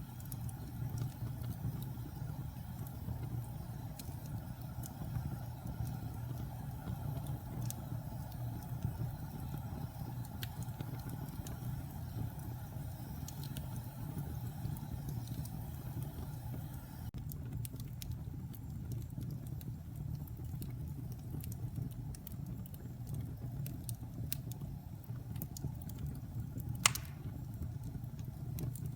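Wood fire of damp pine logs burning in a fireplace: a steady low rumble with scattered crackles and one loud pop near the end.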